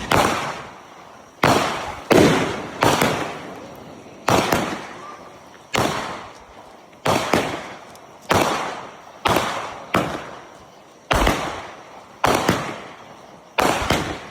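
Fireworks going off in a long run of sharp bangs, roughly one a second and sometimes two close together, each ringing out and trailing off before the next.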